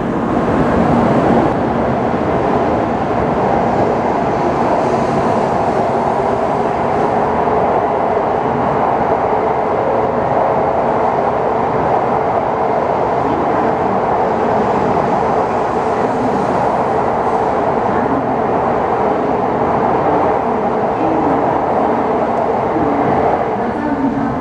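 Shinkansen bullet train rolling slowly past, a steady running noise of wheels on rails and motors.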